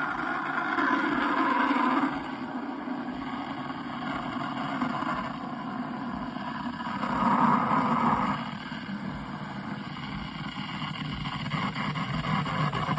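KitchenAid semi-automatic espresso machine with built-in burr grinder running, a steady motor-like mechanical noise that swells twice.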